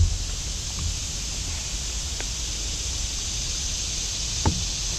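Steady outdoor hiss with a few faint ticks and one short knock near the end.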